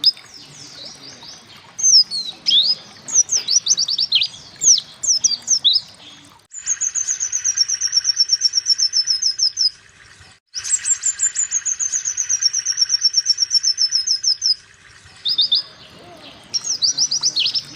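White-eye (pleci) song: quick bursts of high sweeping chirps, then two long, fast trills of repeated notes, each a few seconds long and slowly falling in pitch, then chirps again near the end.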